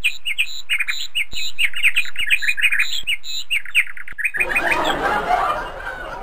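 A small bird chirping in a quick run of short, high tweets. About four seconds in, the chirps stop and give way to a noisy hubbub of voices.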